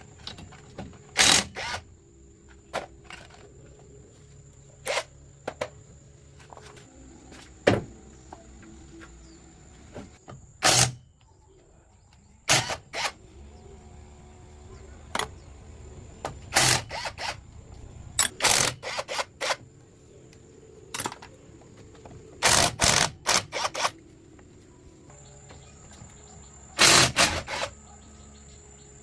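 Irregular knocks and short scraping strokes from hand work, some single and some in quick clusters of three or four. A steady high insect trill runs behind them.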